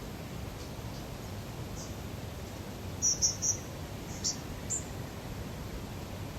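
Small bird chirping: short high chirps, three in quick succession about three seconds in, then two more, over a steady low background rumble of outdoor lake ambience.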